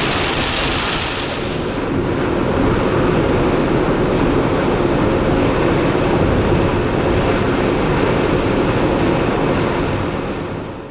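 Steady road and engine noise of a car driving, heard from inside, with a rain hiss that fades about two seconds in. The sound cuts off suddenly at the end.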